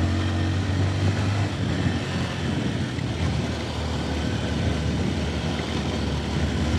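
A 150cc motorcycle engine running while riding, with a steady low hum under rushing wind and road noise. The engine note loosens in the middle and steadies again near the end.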